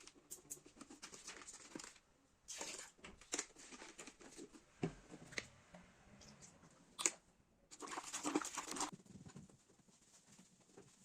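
Household handling sounds: scattered light clicks and knocks, with two bursts of rustling, one about two seconds in and a longer one near eight seconds.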